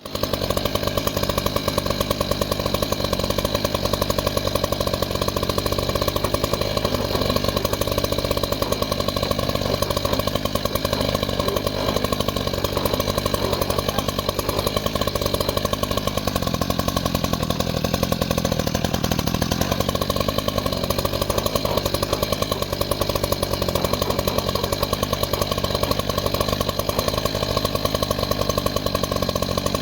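Reciprocating saw (Sawzall) cutting through a downed log, its motor running steadily and the blade stroking rapidly without pause.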